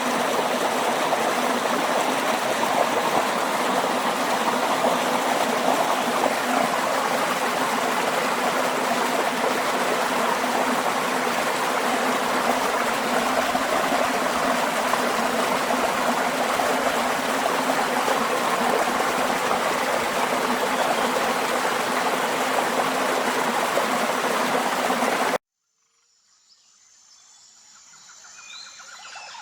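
Steady rushing water from a stream, cutting off suddenly about 25 seconds in. A faint, high, repeated sound then fades in near the end.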